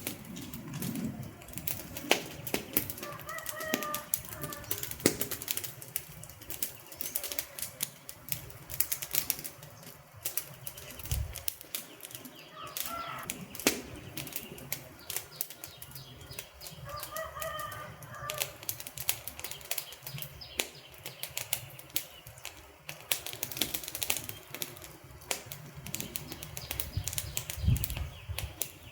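Wood fire crackling, with dense irregular pops and snaps over a steady hiss, and a few brief whistling tones in between.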